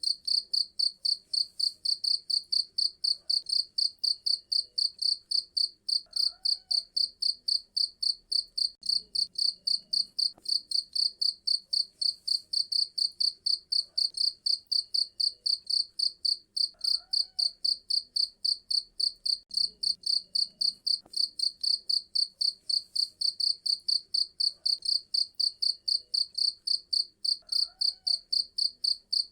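Cricket chirping steadily, a rapid even train of high-pitched chirps at about three to four a second.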